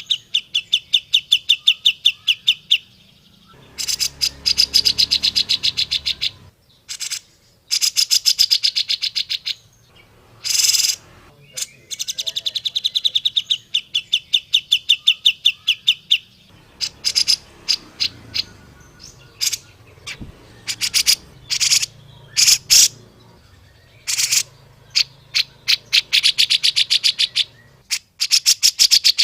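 Grey-cheeked bulbul (cucak jenggot) calling: runs of fast, sharp, evenly repeated notes, each run lasting one to three seconds, repeated again and again after short pauses.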